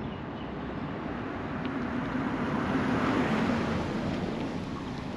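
A motor vehicle passing by. The noise grows louder to a peak about three seconds in, then fades away.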